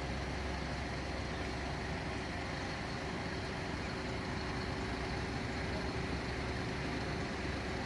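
Large truck engine idling steadily: an even low rumble with no changes in speed.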